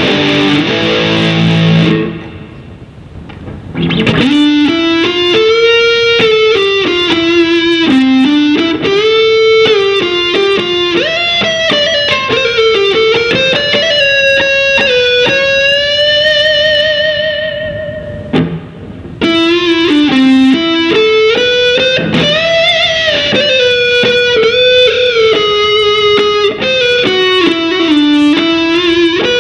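Kramer custom electric guitar played through an effects unit: chords for the first couple of seconds, then a single-note lead melody with string bends and a held note with vibrato, a short pause, and more lead playing.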